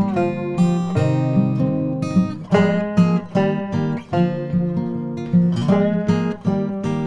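Background music: acoustic guitar strummed and picked in a brisk, even rhythm.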